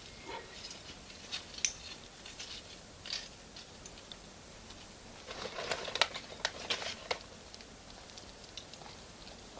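Bonfire of firewood and cut charcoal crackling, with scattered sharp pops and a denser run of crackling from about five to seven seconds in.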